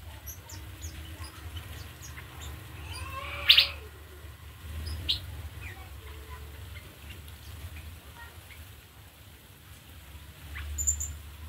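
Aviary birds chirping and calling in short scattered notes, with one louder call about three and a half seconds in and a few quick chirps near the end. A low steady rumble sits underneath.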